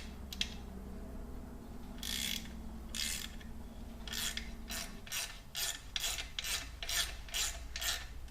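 Socket ratchet clicking as a skid plate bolt is turned out. There are two separate strokes, then steady back-and-forth strokes about two to three a second from about four seconds in.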